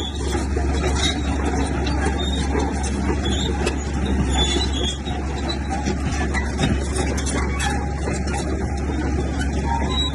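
Komatsu bulldozer's diesel engine running steadily, with scattered short metallic squeaks and clicks over it.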